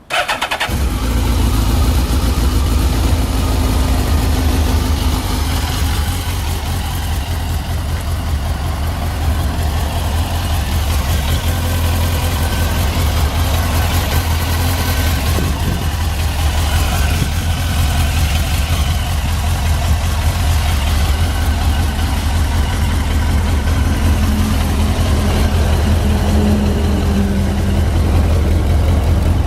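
Suzuki GSX-R1000's inline four-cylinder engine cranks briefly on the starter and catches within about a second, then idles steadily.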